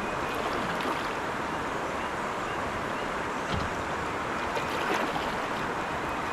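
Creek water rushing steadily over rocks in a shallow riffle, with a few faint knocks.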